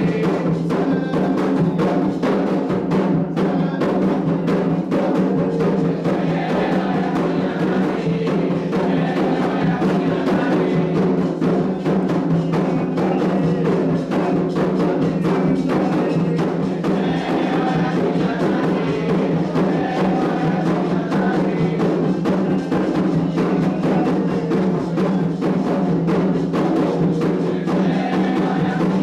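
Candomblé ceremonial drumming: atabaque hand drums playing a dense, continuous rhythm that does not let up.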